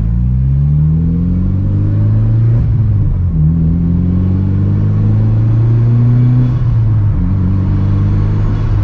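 Mitsubishi Lancer Evolution IX's turbocharged 2.0-litre four-cylinder, running through a muffler-delete exhaust, accelerating hard through the gears. The revs climb, dip at a gear change a little over three seconds in, climb again, then drop at another change about six and a half seconds in and settle to a steady cruise.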